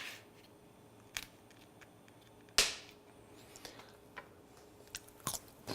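Kitchen knife knocking against a cutting board while cutting up a bell pepper: a handful of sharp, irregular knocks, the loudest about two and a half seconds in.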